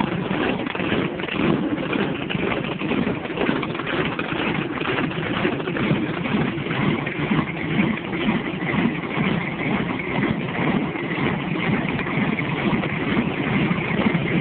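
Drag-race Chevrolet Vega's big exposed engine idling loudly, its level rising and falling with an uneven beat.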